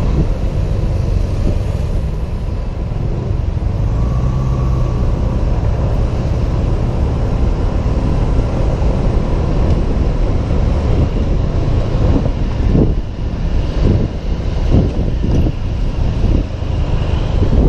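Wind rushing over a helmet-mounted camera on a Honda PCX 125 scooter riding in road traffic, a steady low rumble that turns gusty and uneven about two-thirds of the way through.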